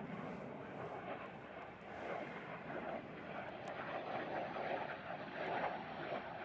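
Aircraft engine noise at an air show: a steady rushing that swells and eases a little.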